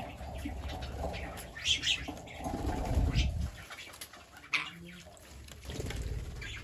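Green parrots giving short, high chirping calls a few times, over low rumbling noise.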